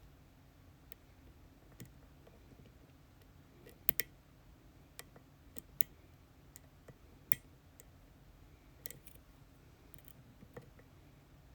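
Lock-picking tools working an ASSA Twin Exclusive pin-tumbler cylinder, with sparse, irregular small metallic clicks. The loudest is a sharp double click about four seconds in.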